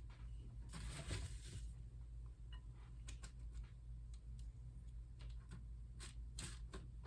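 Faint rustling and scattered light clicks of sticky chow mein noodle mixture being scooped with a spoon and shaped into nests on parchment paper, with a longer rustle about a second in. A low steady hum runs underneath.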